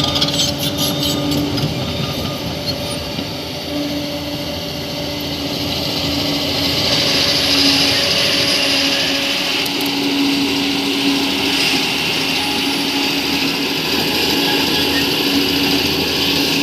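Crawler bulldozer's diesel engine running steadily under load, with a held tone that wavers slightly in pitch and grows a little louder from about halfway through. Rapid clicking comes in the first couple of seconds.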